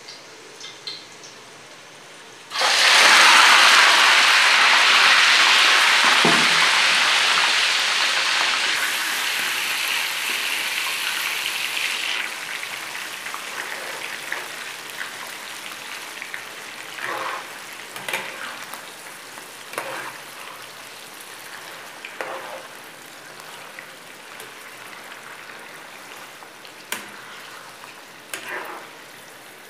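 Raw chicken livers going into hot oil in a frying pan: a sudden loud sizzle about two and a half seconds in that slowly dies down, then a steadier, quieter sizzle. A steel spoon stirring knocks and scrapes against the pan now and then.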